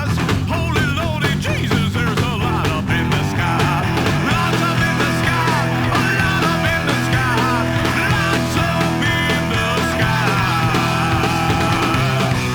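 Loud rockabilly-style rock band playing, with electric guitar over steady bass notes and drums, and a wavy, bending lead line.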